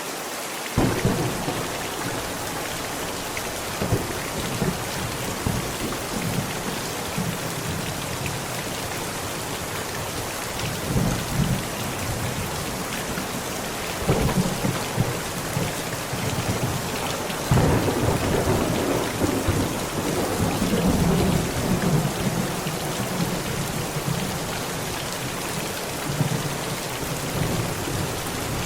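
Heavy rain falling steadily on a tent, with thunder rolling several times; the longest, loudest rumble comes a little past halfway and lasts several seconds.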